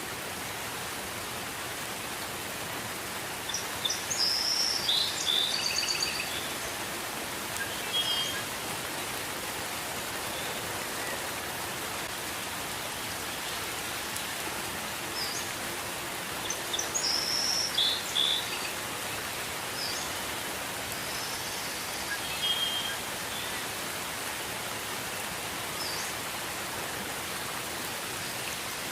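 Gentle rain falling steadily, with birds chirping in short bursts now and then, loudest a few seconds in and again past the middle.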